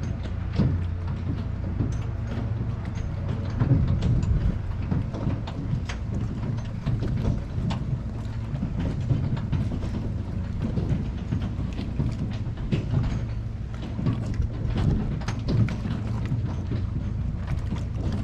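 Steady low rumble of wind buffeting the camera's microphone, with scattered light clicks and knocks throughout.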